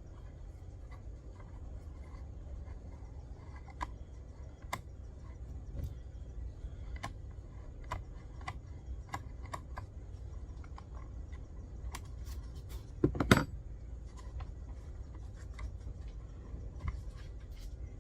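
Scattered light clicks and metallic taps of small parts and hand tools being handled, with one louder clunk about thirteen seconds in, over a low steady rumble.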